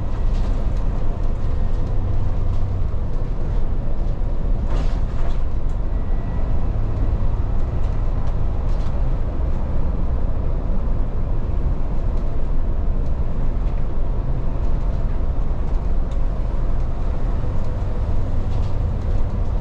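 Volvo 8900 bus driving, engine and road noise heard from inside the cabin: a steady low drone, with a brief rattle about five seconds in.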